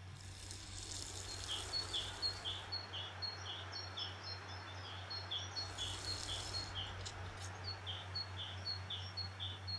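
A bird chirping in a steady rhythm, about two short high chirps a second, over a faint hiss and a low steady hum.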